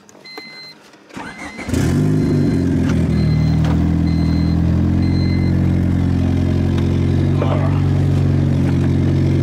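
Turbocharged car engine cranked and catching about a second and a half in, then idling steadily. A car's warning chime beeps repeatedly through the first few seconds.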